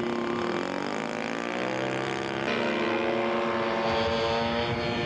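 Radio-controlled model airplane's engine and propeller running, its pitch sliding down as it throttles back, then shifting abruptly about halfway through and holding a steadier note.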